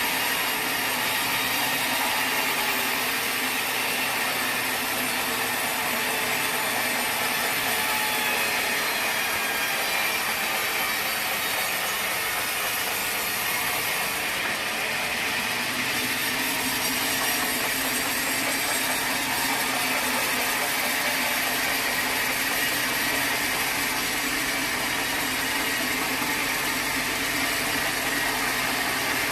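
Sawmill saw cutting steadily through a teak log, a continuous even sawing noise that never lets up.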